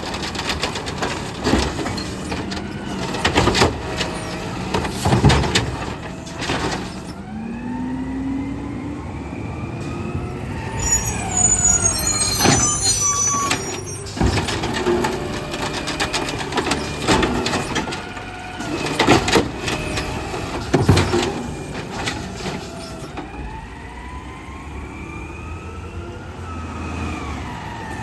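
Garbage truck working its route: the engine revs with a whine that rises and falls every few seconds, among repeated loud bangs as carts are dumped and slammed.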